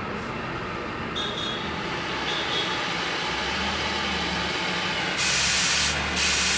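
Oxy-fuel cutting torch flame burning with a steady hiss, with two louder, sharper hissing blasts near the end.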